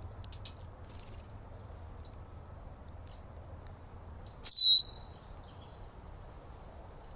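A bird call: one loud, sharp, high note about halfway through that slides down and holds briefly. Fainter chips come before and after it over a low steady background rumble.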